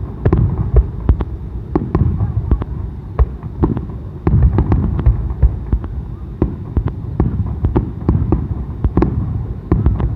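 Fireworks display: rapid, irregular bangs and crackling bursts of aerial shells, several a second, over a continuous low rumble of explosions.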